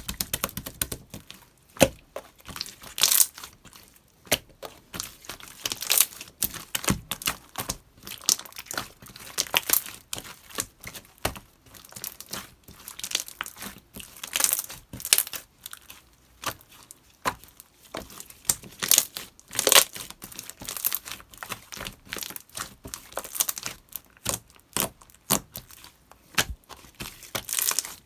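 Slime being played with, giving a dense, irregular crackling and popping.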